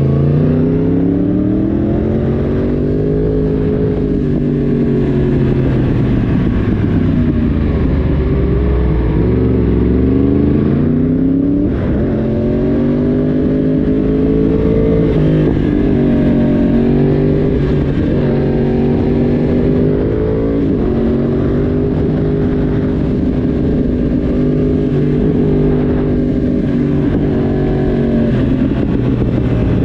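Yamaha YZF-R1's crossplane inline-four engine and exhaust at road speed, its pitch rising and falling over and over as the throttle is opened and rolled off through the bends.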